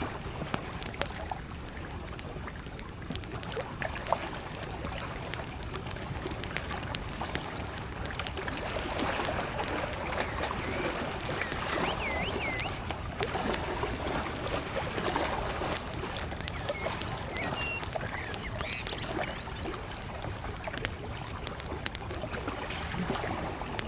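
Wood fire crackling with frequent sharp pops over small lake waves lapping at the shore. A few short bird chirps come in from about halfway through.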